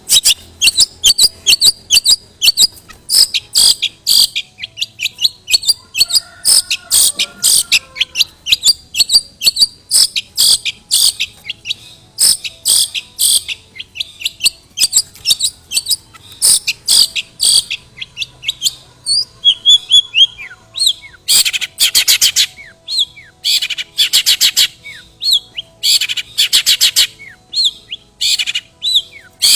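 Long-tailed shrike (cendet) singing a long, loud run of rapid, sharp chattering notes repeated several times a second, with denser bursts in the second half. Its song is stuffed with mimicked material from other birds.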